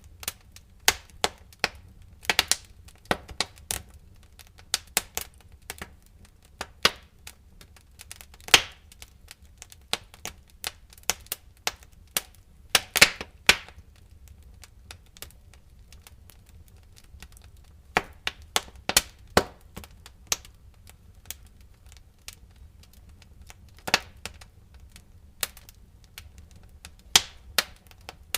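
Wood fire crackling in a fireplace: irregular sharp pops and snaps, some in quick clusters, with a quieter stretch in the middle, over a faint steady low rumble.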